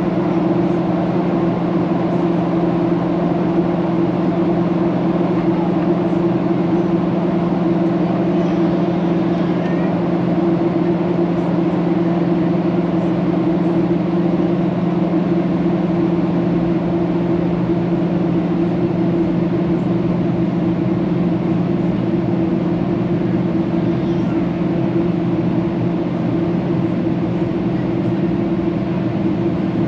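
Steady cabin noise inside a Boeing 737-800 in flight: a constant engine drone with the hiss of airflow over the fuselage, unchanging throughout.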